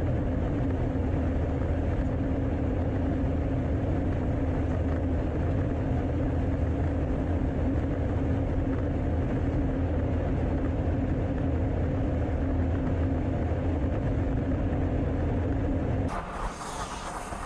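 Steady drone of an aircraft in flight heard from inside the cabin: engine and airflow rumble with a constant hum. It shifts to a thinner, slightly quieter noise near the end.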